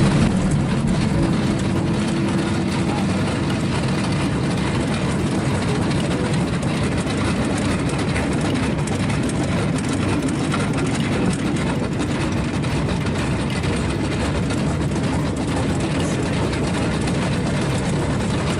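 Vehicle engine running steadily under way, a continuous low hum and rumble with no change in speed.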